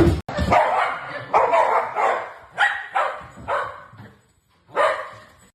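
Dog barking: a string of short barks about twice a second, then a pause and one more bark near the end.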